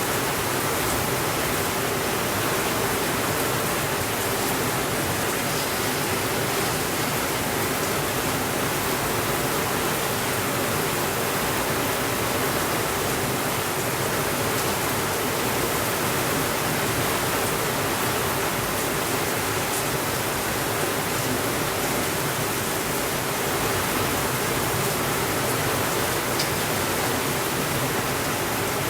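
Steady rainfall, an even hiss that holds one level throughout, with a few faint clicks.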